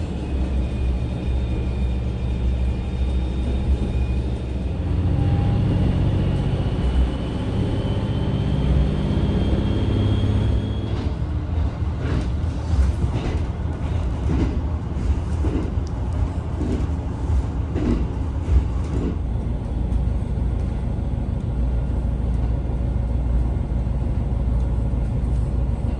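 Train running: a steady low rumble with a slowly rising whine over the first ten seconds or so, then a run of sharp clacks over about seven seconds in the middle.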